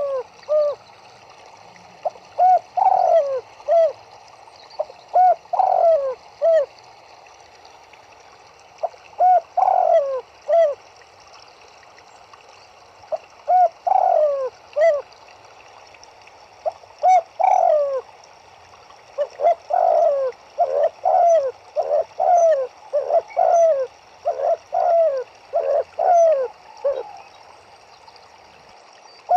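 Turtledoves cooing: phrases of several short, falling coo notes repeated every few seconds, coming in a quicker run in the second half. Under them is a steady faint hiss of running water.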